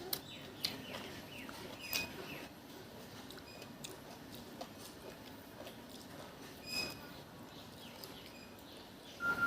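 Faint, irregular wet smacking and clicking of someone chewing and sucking on ripe mango.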